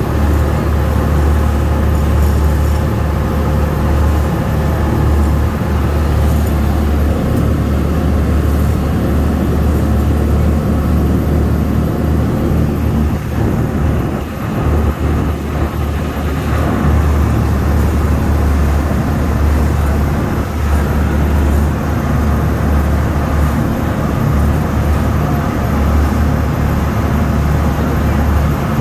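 Amphibious duck boat's engine running steadily as it cruises on the river, a constant low drone with wash noise over it.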